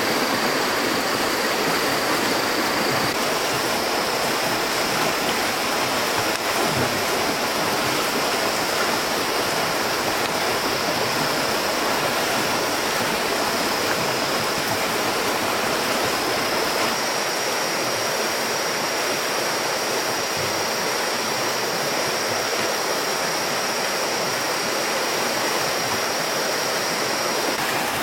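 Steady rush of running water, even and unbroken, with a thin high steady tone above it that steps slightly up in pitch a few seconds in and again about halfway.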